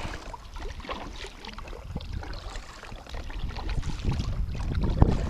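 Wind buffeting the microphone, growing stronger near the end, over small irregular ticks and knocks from a kayak on the water, with one sharper knock about five seconds in.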